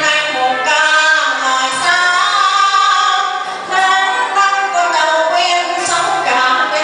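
Female voices singing a song with musical accompaniment, the notes long and held.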